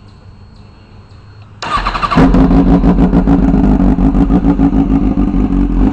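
2006 Kawasaki ZX-6R's 636 cc inline-four starting with its exhaust pipe removed, running on open headers. It cranks briefly about a second and a half in, catches, and settles into a pretty loud, steady idle with fast even exhaust pulses.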